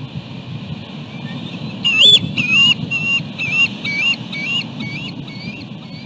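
A bird calling a rapid series of about eight high, shrill notes, roughly two a second, starting about two seconds in and fading out near the end, over a steady rumble of wind and surf on the microphone.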